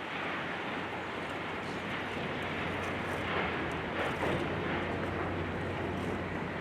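Steady engine noise: a low hum under a wide rushing sound that slowly grows louder.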